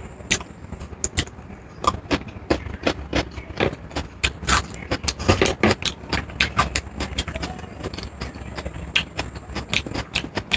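Close-miked eating sounds: chewing and wet mouth clicks, with many sharp, irregular crackles several times a second over a low steady hum.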